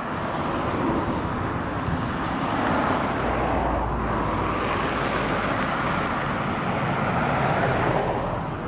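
Road traffic passing: a continuous rush of tyre and engine noise that swells twice as vehicles go by.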